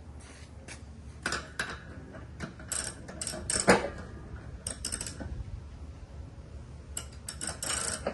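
Metal hand tools working on a riding mower's deck spindle: scattered metallic clicks and clinks, the loudest clank about three and a half seconds in, and a quick run of clicks near the end.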